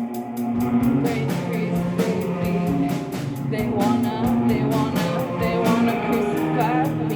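A live band playing a song, with a steady beat of cymbal hits at several a second over held guitar and bass notes; the full band comes back in right at the start.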